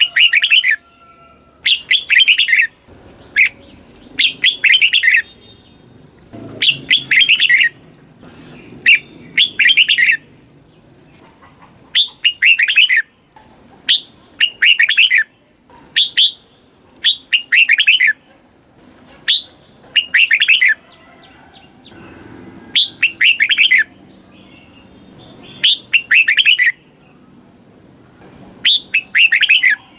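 Red-whiskered bulbul singing loudly in short chirping phrases, one every second or two with brief pauses between.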